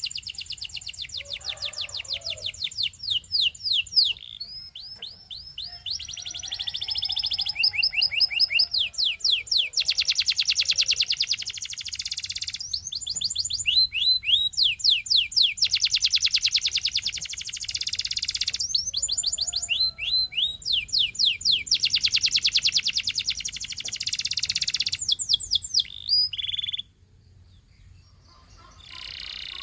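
Canary singing a long song made of fast trills, each phrase a rapid string of repeated high notes. The phrases have short breaks between them, and there is a pause of about two seconds near the end before the singing starts again.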